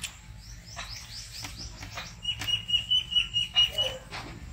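Birds calling: first a run of quick, falling chirps, then one bird repeating a short, high note about six times a second for nearly two seconds.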